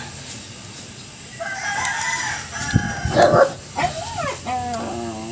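A rooster crowing: one long, pitched call that starts about a second and a half in and bends down in pitch toward the end, with a couple of sharper, louder peaks around three seconds in.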